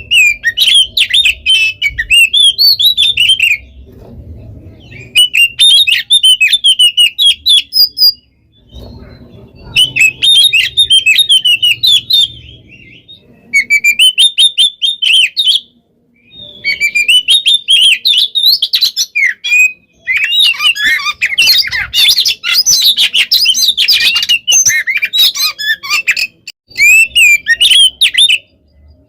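Oriental magpie-robin (kacer) singing loudly in fast, dense phrases of varied whistles and trills, each a few seconds long with short pauses between them, then one long unbroken run of about ten seconds in the second half.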